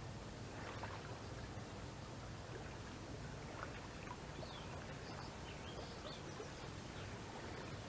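Faint river ambience: a steady low rush of water and air, with a few faint, short high chirps about halfway through.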